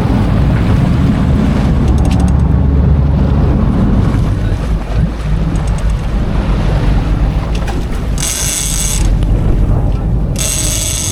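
Strong wind buffeting the microphone over sea and rain noise on a boat, a heavy steady rumble. Two short high-pitched bursts cut through about eight and ten seconds in.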